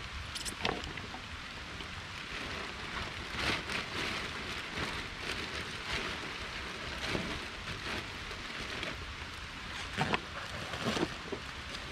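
Steady rain, with scattered sharp drop hits on a nearby surface and a few louder hits near the end.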